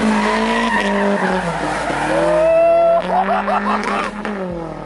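Car engine held at high revs while the tyres squeal, with the tone of the squeal bending up and down in the second half.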